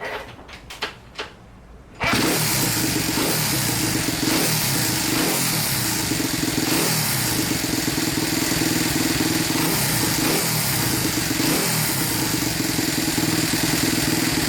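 Honda Monkey's small single-cylinder four-stroke engine: a few short knocks, then it starts about two seconds in and keeps running steadily.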